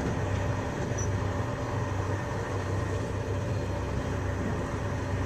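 Steady running noise of a Eurostar high-speed train heard from inside the passenger carriage: an even rumble with a constant low hum.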